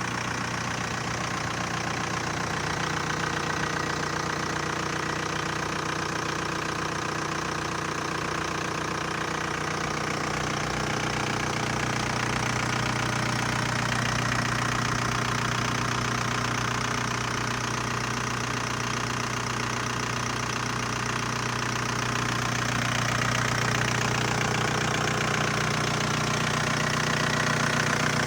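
Seat 1.9 TDI 110 hp four-cylinder diesel engine running at a steady, unchanging speed, most likely idling.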